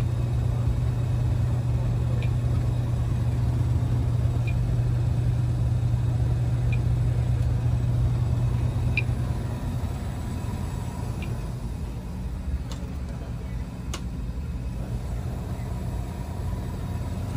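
Old Coleman gas furnace firing after repair with a new gas valve and thermocouple: a steady low rumble that drops in level about halfway through, with a faint tick about every two seconds.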